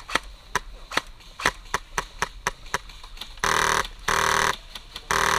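Sharp clicks, several a second, then three short buzzing bursts of full-auto fire from a high-rate HPA airsoft rifle, each under half a second long, the last near the end.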